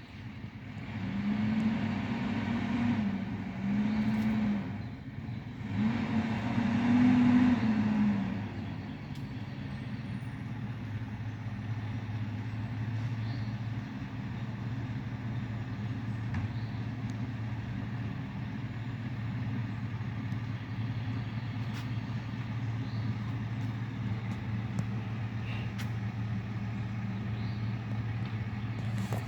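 A road vehicle's engine revs up in three surges over the first eight seconds, its pitch rising and falling each time, then settles into a steady low drone.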